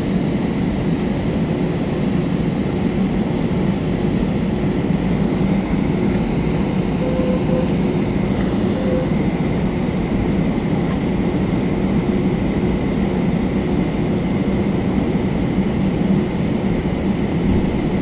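Steady cabin noise inside an Airbus A320: the jet engines' low hum and rumble with a thin, steady high whine above it.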